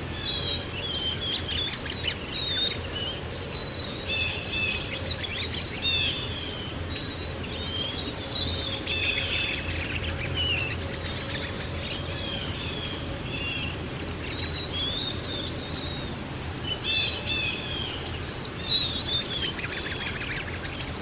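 A chorus of small songbirds chirping and trilling continuously over a steady low background rush. Everything cuts off abruptly at the very end.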